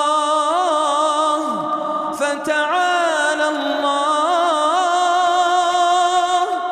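A man's voice chanting Quran recitation in a slow, mournful melodic style, holding long notes decorated with wavering turns. There is a brief break for breath about two seconds in.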